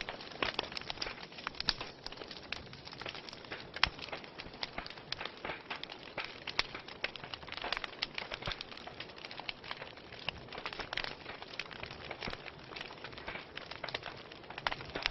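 Wood fire burning in a fireplace, crackling with dense, irregular small pops and snaps over a soft hiss, with louder sharp pops about four seconds in and again a little later.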